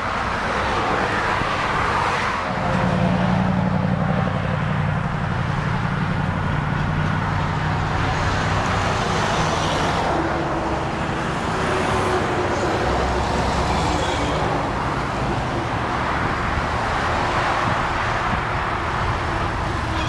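Highway traffic: a steady wash of passing vehicles, with a heavier vehicle's low engine hum from about two and a half to seven seconds in.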